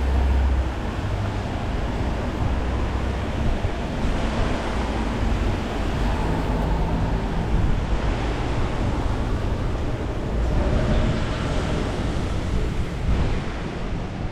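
Gusting wind buffeting the microphone with rain, giving a steady rushing noise and low rumble, with road traffic underneath.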